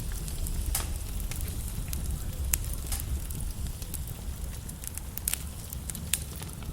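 Log fire in a fireplace crackling, with frequent sharp pops over a steady low rumble.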